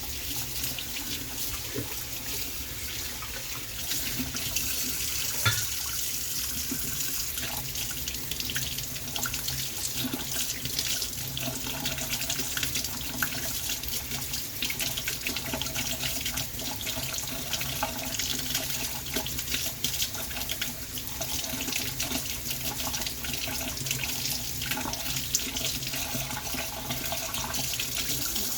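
Water running steadily from a tap into a sink, with small splashes through it.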